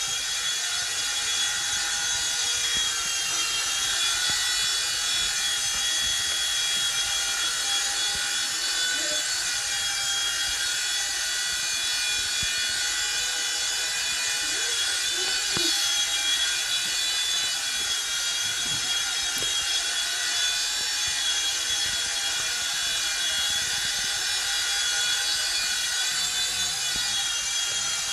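A WLtoys V911 Pro electric RC helicopter hovering: a steady high-pitched whine from its small electric motor and spinning rotor. The pitch wavers slightly as the throttle changes.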